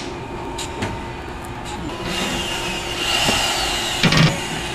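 Power drill running a KOMA porcelain drill bit into hard tile: a steady motor whine, with the grinding growing louder about two seconds in and a short rattling clatter near the end.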